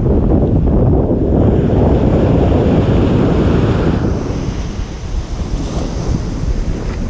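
Ocean surf: a wave breaks and washes up the beach, loudest for the first four seconds, then eases off as the water recedes. Wind buffets the microphone underneath.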